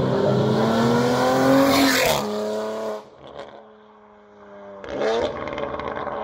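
Modified Audi RS5 with an aftermarket intake and full exhaust accelerating, its engine note rising in pitch for about two seconds and ending in a short sharp burst of noise. A steadier drone follows, with a second brief burst about five seconds in.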